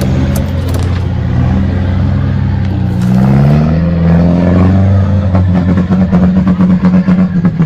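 Truck engine running hard under load. Its pitch rises about three seconds in and then holds high, and near the end the sound comes in quick, uneven pulses.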